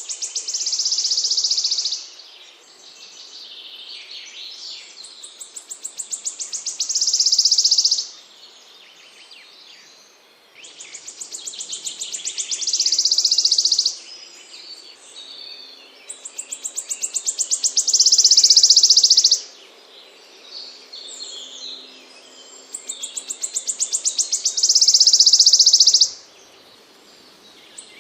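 A small songbird from a birdsong training recording sings the same phrase over and over, about every five to six seconds. Each phrase is a high-pitched run of quick notes that speeds up and grows louder into a dense trill, then stops abruptly.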